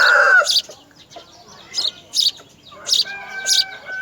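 Small birds giving short, sharp, high chirps every half-second or so. A loud rooster crow ends about half a second in, and a steady held tone starts near the end.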